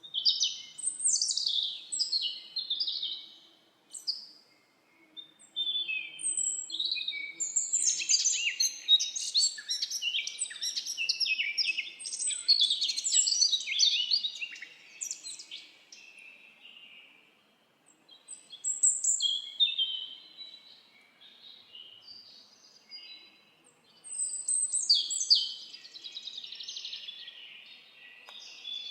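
Several songbirds singing and calling over one another: overlapping high chirps, whistles and trills in busy bursts, with brief lulls about four seconds in and again past the middle.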